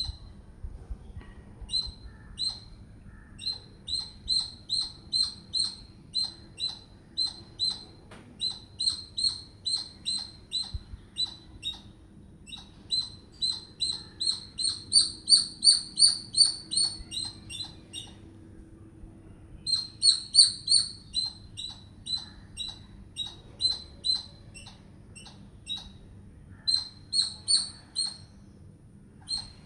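Squirrel calling with a long series of sharp, high-pitched chirps, about two to three a second, in runs broken by a few short pauses.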